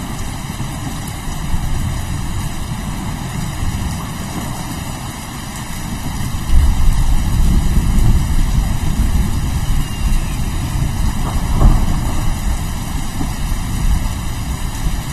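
Steady rain with a deep rolling rumble of thunder that swells suddenly about six and a half seconds in and stays heavy, peaking again near the end.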